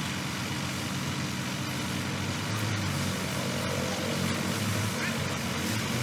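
Heavy diesel engine of construction machinery running steadily, a low drone that swells briefly a couple of times.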